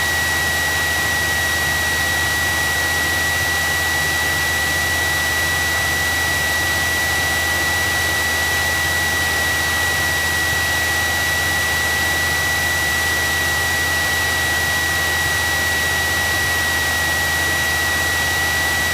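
Cessna 172SP's four-cylinder Lycoming engine idling steadily while taxiing, heard as an even drone inside the cabin, with a constant high whine over it.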